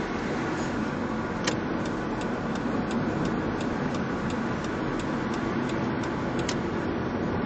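Steady distant background noise of urban traffic around the race circuit. From about a second and a half in, a row of sharp, regular ticks comes at about three a second for some five seconds, over the noise.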